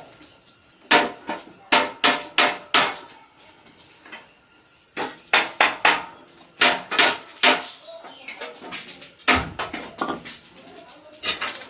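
Hammer blows on metal: three runs of sharp, ringing strikes a few tenths of a second apart, with short pauses between the runs.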